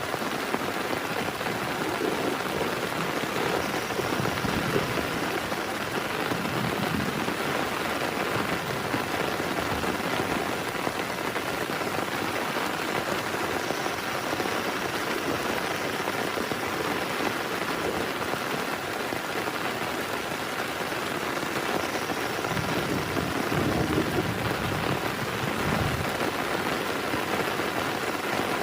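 Heavy rain pouring steadily, a dense, even patter of drops on a surface.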